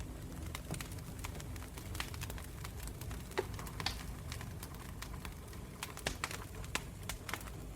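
Campfire burning, wood crackling and popping in irregular sharp snaps over a low steady rumble of the flames.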